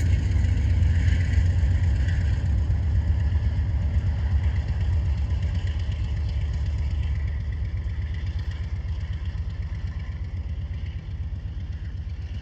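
Freight train moving away, a deep rumble with a faint steady higher hum that fades gradually.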